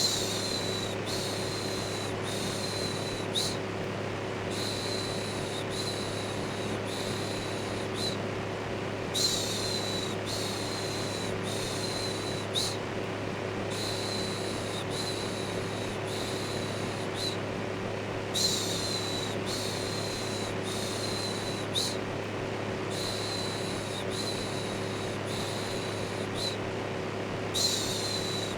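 Electric fan running steadily with a low hum. Over it, repeated "shhh" shushing sounds come in hissy pulses of about a second each, in a looped pattern that repeats roughly every nine seconds.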